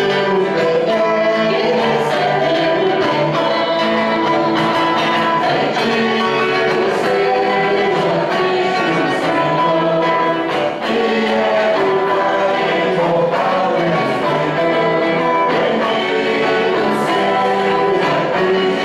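A church hymn sung by a group of voices with instrumental accompaniment.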